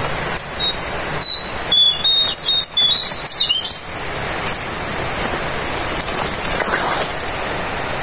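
A small bird gives a quick run of high, stepped notes for about three seconds. Over it come close rustles and sharp knocks from hands handling the bird and the mist net.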